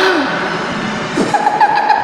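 Eerie horror sound effect of a ghostly voice over a steady hiss: a short falling wail at the start, then from about one and a half seconds in a high, wavering, pulsing tone.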